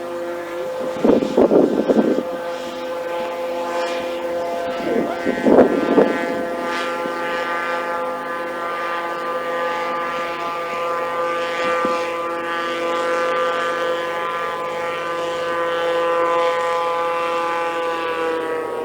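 Airboat engine and propeller droning steadily on the lake, with a slight drop in pitch near the end. Two brief louder bursts of noise break in about a second and five seconds in.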